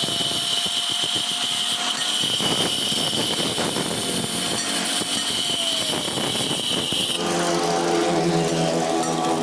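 Machinery running steadily with a high whine, changing about seven seconds in to a lower, buzzing motor sound.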